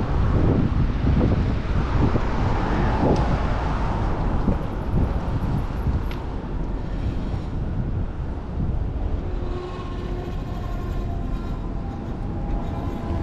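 Wind buffeting the microphone of a riding cyclist's camera, a heavy low rumble, with the steady noise of city traffic around it. A few faint steady tones come in near the end.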